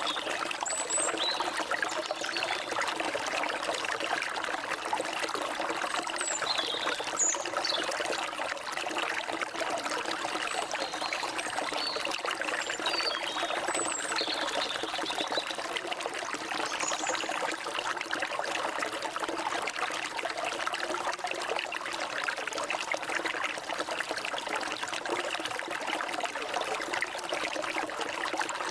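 Forest stream flowing with a steady trickling rush of water. A few short, high bird chirps come now and then in the first half.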